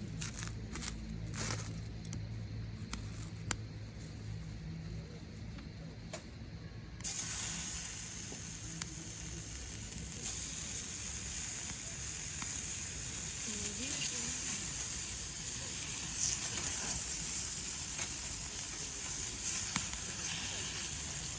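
Scattered light clicks and knocks, then about seven seconds in a sudden loud sizzle starts as food hits a hot pan, and it carries on frying steadily.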